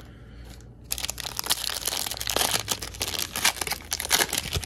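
Foil wrapper of a Panini Donruss basketball card pack crinkling as it is handled and ripped open, a dense crackle starting about a second in and going on to the end.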